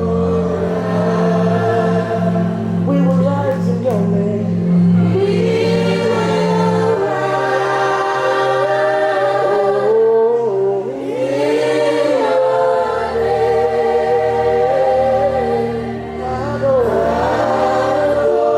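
Congregational worship singing: several voices holding long, gliding sung lines over sustained keyboard chords that change every few seconds.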